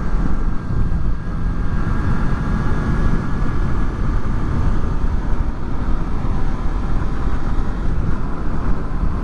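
Honda VFR800's V4 engine running steadily on the move, mixed with wind rush, picked up through microphones covered by furry 'dead cat' windshields.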